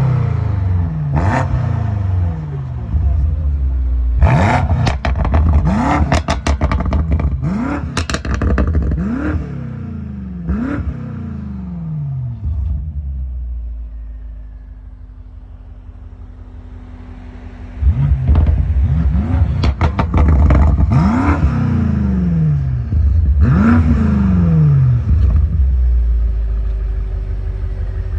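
Stock 2020 BMW M5 Competition's 4.4-litre twin-turbo V8 revved to about 4,000 rpm again and again, each rev falling back with a string of crackles and pops from the exhaust. It settles to a quieter idle midway, then is revved several more times.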